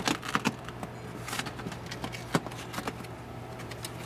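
Scattered light clicks and a short rustle, about a second in, of hands peeling the plastic moisture barrier gently off a car's inner door, over a faint steady hum.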